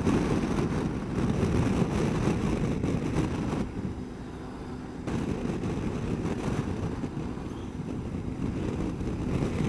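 Wind buffeting the microphone and road noise while riding a Honda ST1300 Pan European motorcycle at highway speed, with its V4 engine running steadily underneath. The rush eases briefly about four seconds in, then picks up again.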